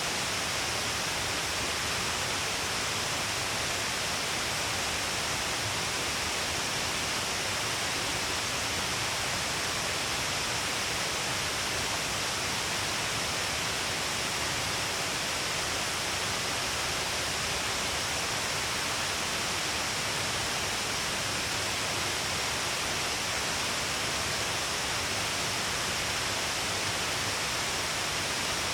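Steady, unbroken rush of falling water at Shiraito Falls, a dense hiss with no breaks or changes.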